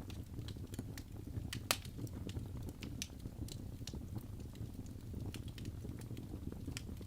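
Wood fire crackling in a fireplace: irregular sharp pops and snaps over a low steady rumble of burning, with one louder pop a little under two seconds in.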